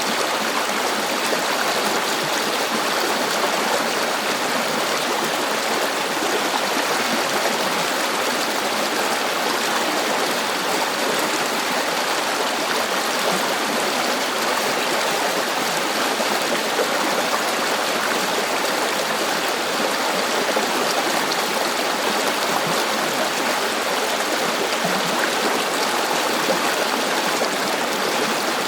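River water flowing over stones, a steady rushing and babbling with no pauses or changes.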